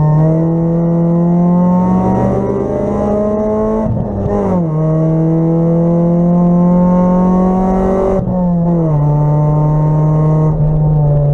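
Acura Integra race car's four-cylinder engine heard from inside the stripped cabin, pulling hard with its pitch climbing steadily. The pitch falls sharply at an upshift about four seconds in, climbs again, then drops about eight seconds in and holds steadier.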